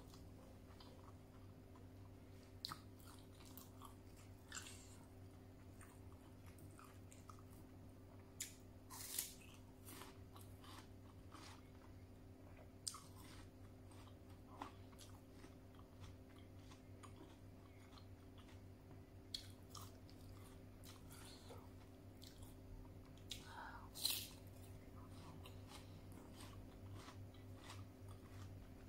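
A person eating: chewing and biting into raw pear slices, with scattered sharp mouth clicks and a few louder crisp crunches.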